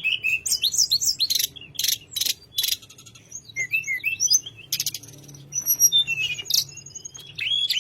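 A tledekan gunung songbird singing: quick high whistled chirps and trills mixed with sharp clicking notes, with a short pause about three seconds in.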